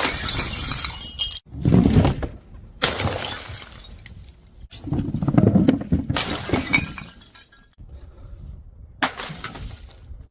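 Glass bottles smashing, several separate shattering crashes a second or more apart, each with a short tinkling tail of falling shards.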